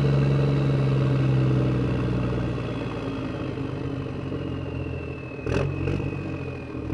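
Engine-like running hum with a thin high whine that slowly falls in pitch as it grows quieter, and two short clicks about five and a half seconds in.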